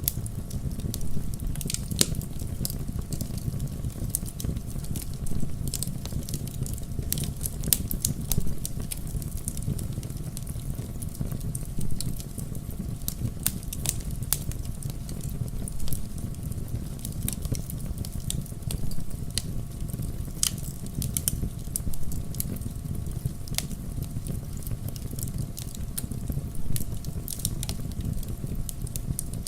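Wood fire crackling in a fireplace: irregular sharp pops and snaps, a few standing out louder, over a steady low rumble.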